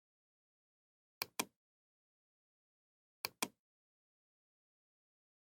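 Computer mouse button clicking: two pairs of sharp clicks about two seconds apart, with silence between them.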